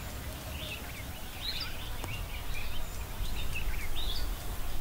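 Small birds chirping in short, repeated bursts, every half second to second, over a steady low outdoor rumble.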